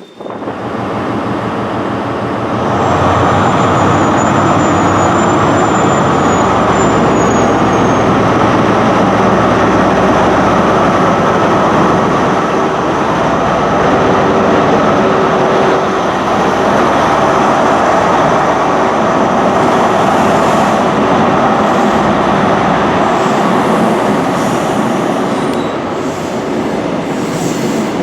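A train passing close by: a loud, steady rush of wheels and running gear on the rails, with a thin, high squeal for a few seconds near the start.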